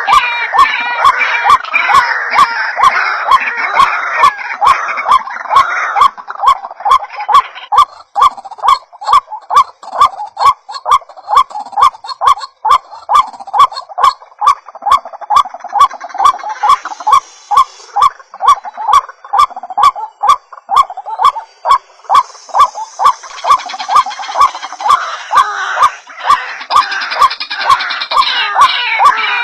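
White-breasted waterhen (ruak-ruak) calling, played as a lure recording: harsh notes repeated in an even rhythm, about three a second. The calling is denser and overlapping in the first few seconds and again in the last third.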